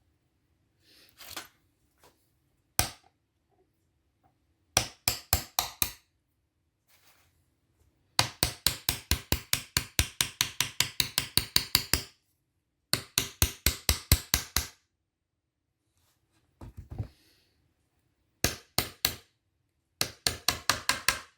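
Hammer tapping in quick runs of sharp strikes, about six a second, with pauses between runs, driving the pin of the secondary lever into an Alfa Romeo 147/GT gear lever tower.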